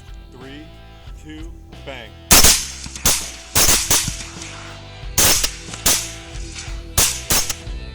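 Rapid rifle fire during a hog hunt: about nine shots in quick, irregular succession, starting about two seconds in, over background music.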